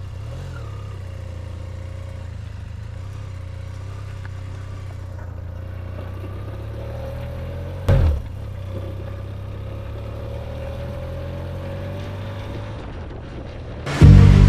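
Motorcycle engine running at a steady speed, with a short loud burst about eight seconds in. Music comes in near the end.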